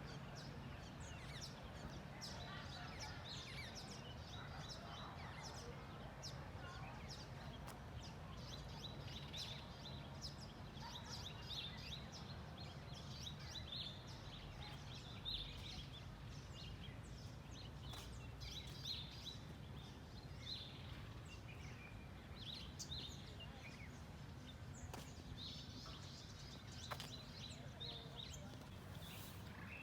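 Birds calling, with many short, high chirps scattered throughout, over a low steady rumble.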